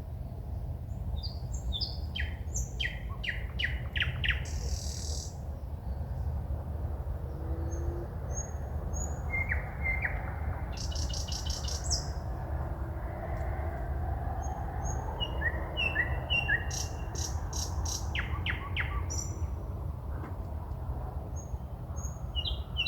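Forest songbirds singing at night: phrases of rapidly repeated notes alternating with short whistles, over a steady low rumble.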